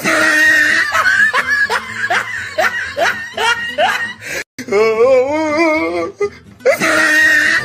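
An edited-in comedic laughter sound effect over music, heard twice with an abrupt cut between. Each time a wavering held tone gives way to a rapid run of short rising 'ha' laughs.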